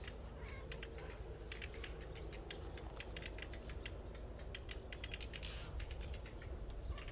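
Small birds chirping: a steady run of short, high chirps about three a second, with fainter shorter calls among them. They are the parent birds, which seem startled by the cats hunting their fledglings.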